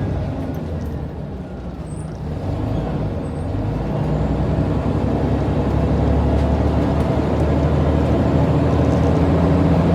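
Scania N94UD Omnidekka double-decker bus engine running, dropping back briefly about a second in, then growing louder from about four seconds in and holding there.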